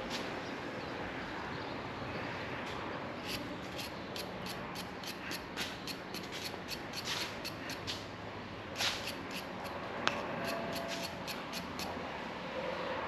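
A series of light, sharp clicks, irregularly a few per second, over a steady background hiss; they thin out after about ten seconds.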